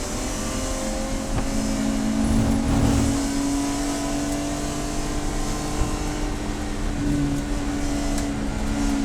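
Race car engine running at high revs, its note holding nearly steady with a few small shifts in pitch.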